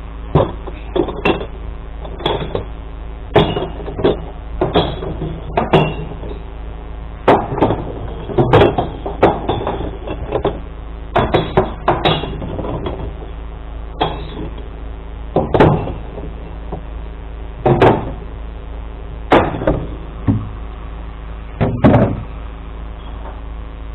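A series of irregular knocks and bangs, about twenty spread unevenly through the stretch, over the steady hum of an idling truck engine.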